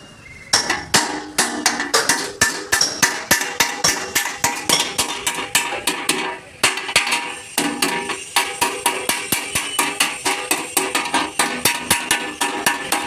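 Hammer blows on the steel sheet metal of a truck cab, beating out accident dents. The strokes are quick and even, about four a second, and the metal rings. They pause briefly about six seconds in, then carry on.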